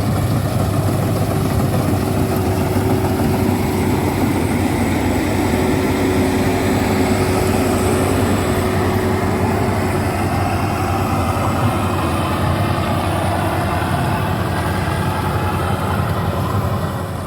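Combine harvester's heavy engine running steadily as it harvests rice, a loud continuous drone with a steady whine over it.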